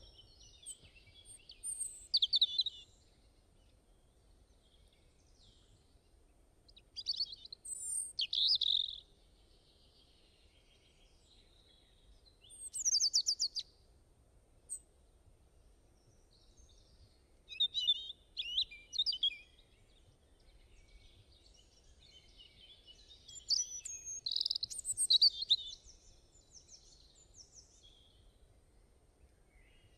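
Songbirds chirping and trilling in short bursts every few seconds, with quiet gaps between, over a faint low background noise.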